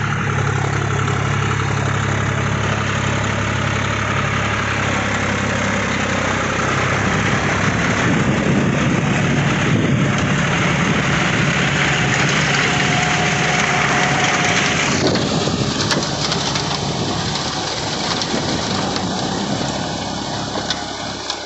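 John Deere 5045 4WD tractor's diesel engine running, a steady hum at first, then buried under a louder rushing noise that drops off suddenly about fifteen seconds in.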